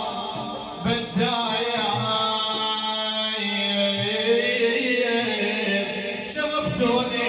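Male madih singer chanting an Arabic religious ode, drawing out long held, slowly bending notes, with a short break for breath about a second in.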